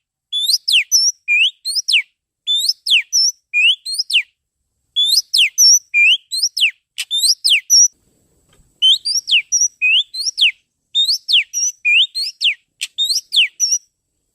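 Oriental magpie-robin song played as a lure call: quick phrases of sharp, high whistled notes, each sweeping down or up, about three or four a second, with short breaks between the phrases.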